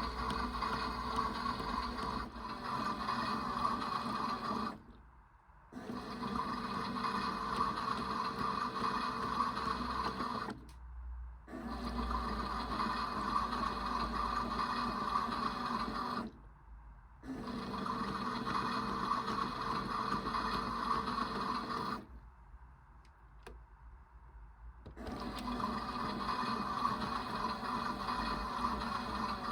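Theo Klein toy washing machine running its wash cycle: a small electric motor hums steadily, stopping for about a second every five to six seconds and for about three seconds near the end.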